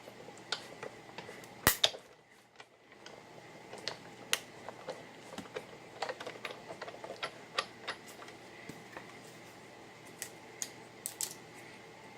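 Irregular light clicks and taps as a die-cut sandwich is run through a hand-cranked Big Shot die-cutting machine and its plates are handled, with one sharp click about two seconds in.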